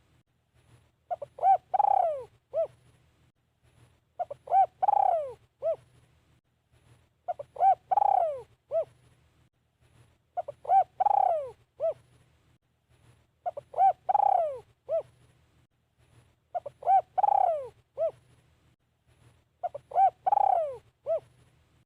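Spotted dove cooing, repeating the same phrase about every three seconds: two short coos, a long falling coo, then a short closing coo.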